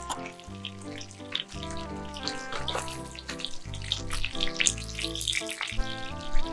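Salmon fillets sizzling and crackling as they fry in butter and oil in a pan, with background music over it.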